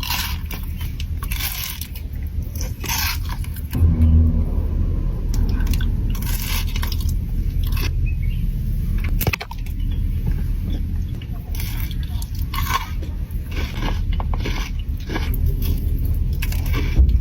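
Close-miked chewing and crunching of chocolate, with irregular crackly crunches over a steady low rumble.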